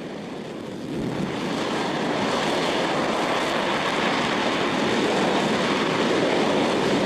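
Hydrogen-oxygen rocket engine firing on a test stand: a loud, steady rushing noise that builds over the first second or two and then holds.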